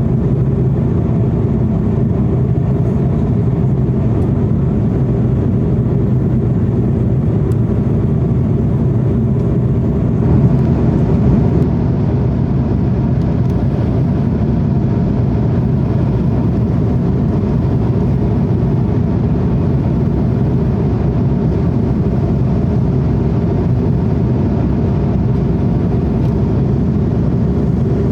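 Steady low drone of an airliner cabin, the engines and airflow running evenly, with a slight swell about ten seconds in.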